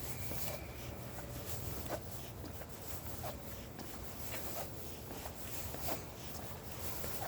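Footsteps on a leaf-covered forest trail, a short scuffing rustle about every second and a half, over a low steady rumble.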